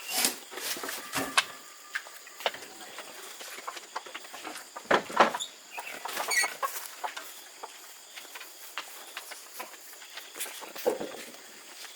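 Chickens clucking at times amid scattered knocks and clatters of work, the sharpest knock about five seconds in.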